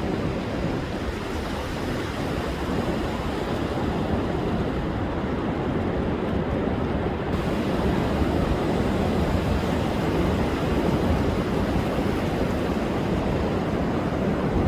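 Rough, storm-driven sea surf breaking and washing on a sandy beach: a continuous deep rush of water, with wind in the background.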